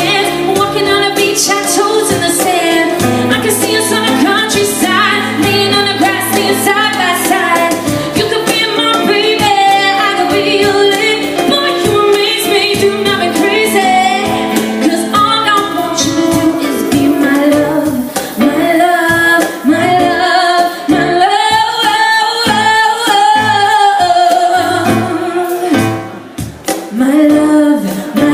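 A woman singing a slow vocal melody with vibrato over a sustained instrumental accompaniment.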